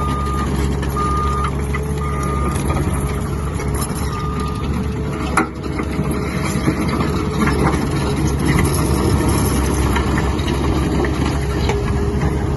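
Skid steer's diesel engine running steadily while it works, with a backup alarm beeping about once a second for the first five seconds. There is one sharp knock about five seconds in.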